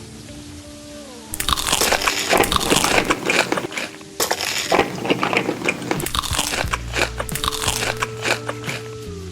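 Loud, close-up crunching of crisp food being bitten and chewed, starting about a second in and pausing briefly about four seconds in, over background music.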